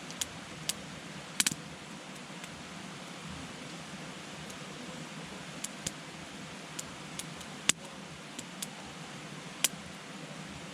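Wood campfire burning: a steady soft hiss, with irregular sharp crackles and pops from the burning wood, the loudest about two-thirds of the way through.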